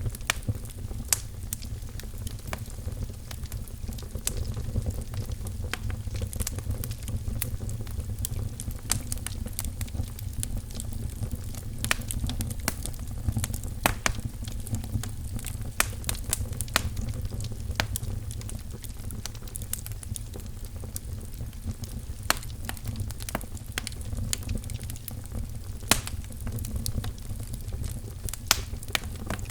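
Wood fire crackling in a fireplace: a steady low rumble of burning logs with irregular sharp pops and snaps scattered throughout.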